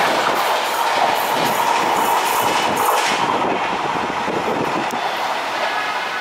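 Express train's last coaches rushing past at about 110 km/h, the wheels clattering over the rail joints. About three seconds in, the clatter thins out and the rushing noise fades as the train moves away.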